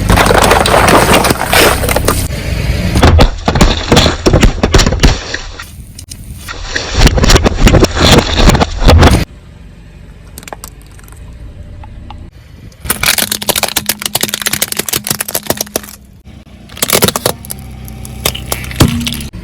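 Car tyres rolling over and crushing crunchy objects: bouts of loud, rapid cracking and breaking, with the car's engine running quietly in the gaps between them.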